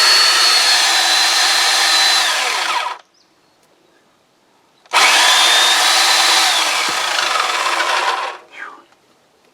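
Corded electric chainsaw running and cutting through small firewood in two bursts of about three to four seconds each, a steady motor whine under load, stopping for a couple of seconds between cuts.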